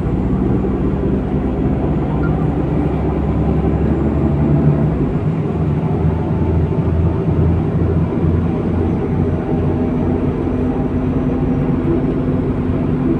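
MAZ-103 city bus running under way, heard from inside the cabin: a steady low engine and drivetrain hum that shifts in pitch about five seconds in, pulsing for a few seconds after.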